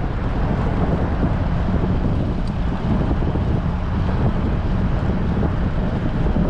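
Strong wind buffeting a bicycle-mounted action camera's microphone while riding, a steady low rumble that flutters with the gusts.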